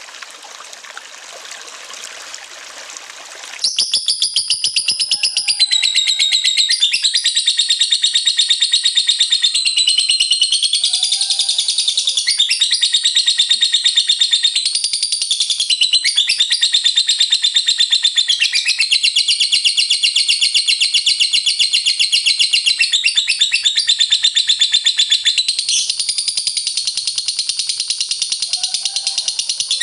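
Running water for the first few seconds. Then, about three and a half seconds in, a lovebird breaks into 'ngekek': a long, loud, unbroken high-pitched trilling chatter of very rapid notes.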